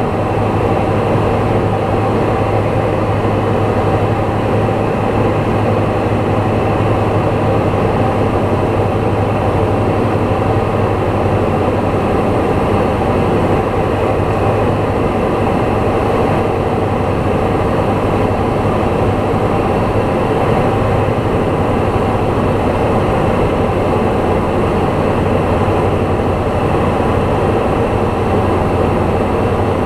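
Light aircraft's piston engine and propeller heard inside the cabin, running steadily with an even drone.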